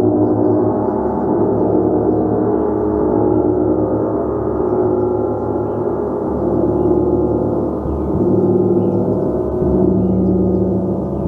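A gong being played continuously: a dense, sustained wash of many overlapping ringing tones that swells a little now and then, with no pause.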